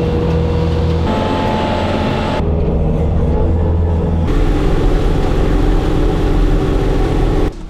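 Bobcat skid steer diesel engine running, in several short clips cut together: the engine sound changes abruptly about a second in, again at two and a half and four seconds, and drops off just before the end.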